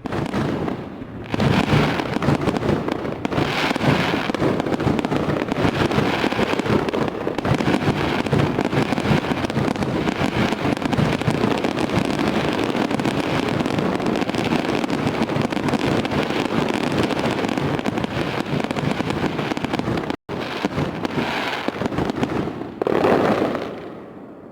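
Fireworks going off in a dense, continuous run of pops and bangs. There is a brief dropout about twenty seconds in, and the sound fades away near the end.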